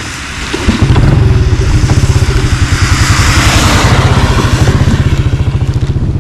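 A small engine running close by with a rapid, steady putter. It starts up loud about a second in and keeps running.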